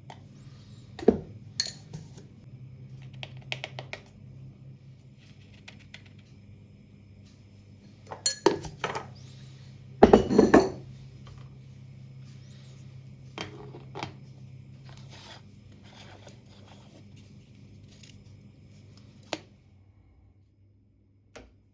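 Kitchenware handled while coffee is being made: scattered clinks, knocks and clatters of crockery and metal, the loudest clatter about ten seconds in. A faint low hum underneath stops about fifteen seconds in.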